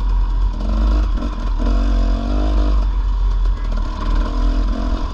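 Dirt bike engine revving up and down as the bike is ridden over a trail, the pitch rising and falling with the throttle, over a deep rumble.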